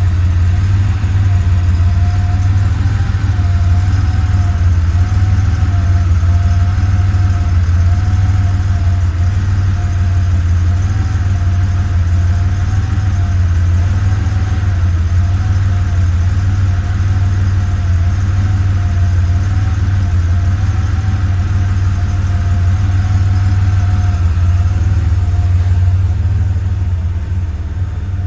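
1989 Porsche 911 Turbo's air-cooled turbocharged flat-six idling steadily, with a faint whine that wavers slowly in pitch. It gets a little quieter near the end.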